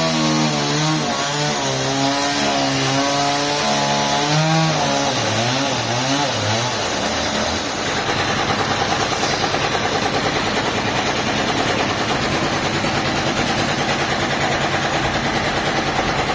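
An engine running, its pitch shifting up and down for several seconds before it settles into a fast, even pulsing about halfway through.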